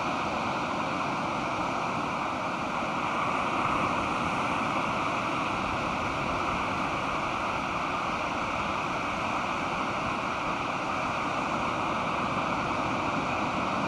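Pacific surf breaking and washing on a beach, a steady rushing wash that swells slightly a few seconds in.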